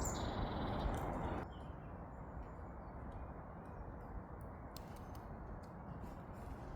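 Quiet outdoor ambience: a steady low hiss that drops quieter about a second and a half in, with scattered faint ticks. A brief high bird chirp comes right at the start.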